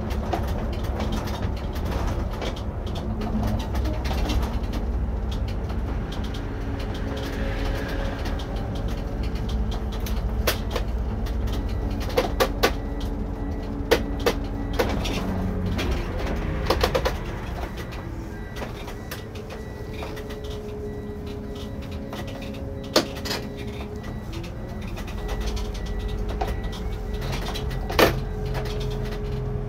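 Irisbus Récréo II coach heard from the driver's seat while under way: a steady engine and drivetrain drone with sharp rattles and clicks, a cluster in the middle and two more near the end. Over it is a faint thin whine, the squeal from the rear that the driver takes for a belt whistling.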